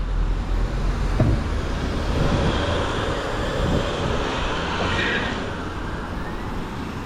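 Road traffic going past: a vehicle's noise swells over a few seconds and then fades, over a constant low rumble.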